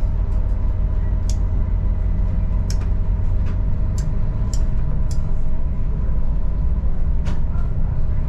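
Adelaide Metro diesel railcar running, heard from inside: a steady low rumble with a steady hum, and sharp clicks every second or so.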